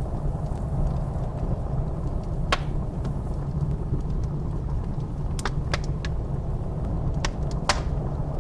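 Wood fire crackling, with sharp pops: one a few seconds in and a cluster of several near the end. Underneath runs the steady deep rumble of blizzard wind.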